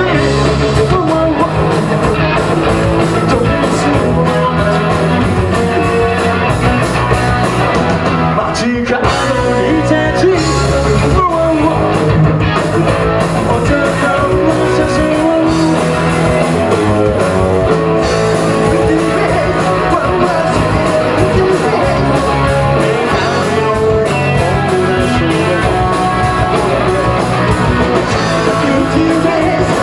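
Punk rock band playing live, loud: distorted electric guitars, bass and drums with shouted vocals.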